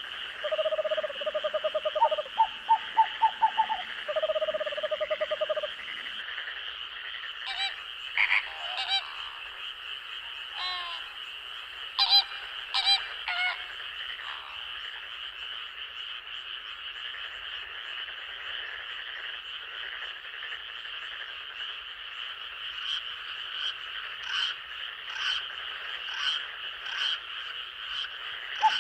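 Night forest chorus: frogs calling in fast pulsed trains for the first six seconds, then scattered sharper calls. Under them runs a steady high-pitched trill of night insects, and near the end a run of short clicking calls.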